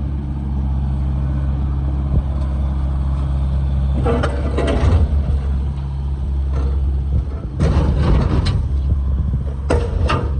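Diesel engine of heavy digging equipment running steadily. Bursts of metallic clanking and scraping come about four, eight and ten seconds in, as broken concrete is dug out.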